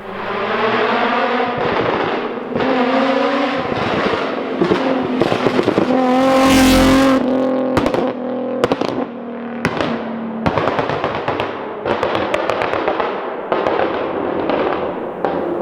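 2006 Infiniti G35 Coupe's 3.5-litre VQ35DE V6 through a Tomei single-exit straight-through exhaust, revving hard again and again, the pitch climbing and dropping away several times. Sharp crackles and pops come on the lift-off between revs, and the loudest rev is about halfway through.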